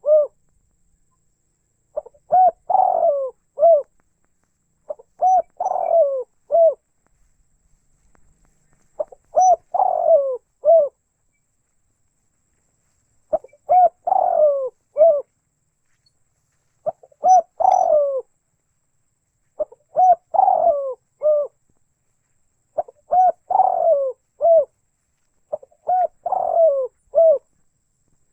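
Spotted dove (tekukur) cooing: a short phrase of several soft coos, repeated eight times, about one phrase every three to four seconds.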